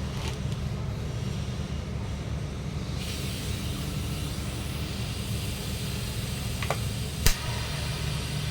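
Steady low hum of a running machine; about three seconds in a steady high hiss starts abruptly and holds, with one sharp click near the end.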